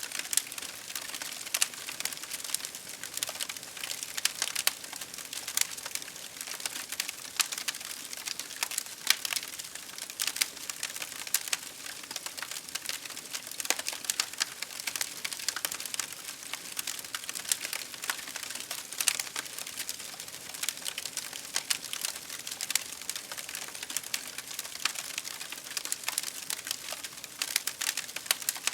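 Campfire burning, a dense run of sharp crackles and pops over a steady hiss.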